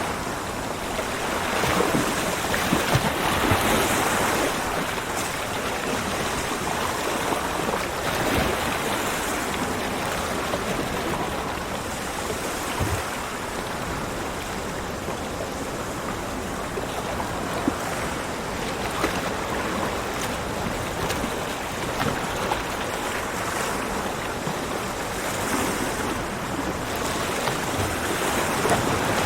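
Ocean waves breaking and washing up on a beach, a continuous surf noise that swells with each wave.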